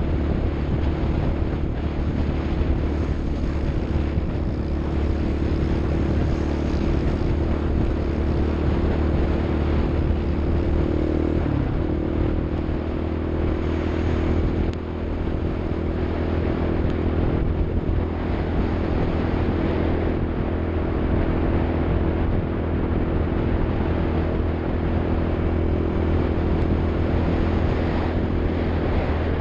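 Off-road vehicle engine running steadily under a constant rush of wind and road noise. Its pitch dips and shifts once, about twelve seconds in, as with a change of revs or gear.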